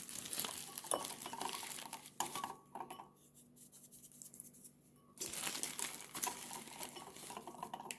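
Kitchen handling noise while xanthan gum is added to icing: rustling and scratchy scraping in two stretches with a quieter gap of about three seconds between them.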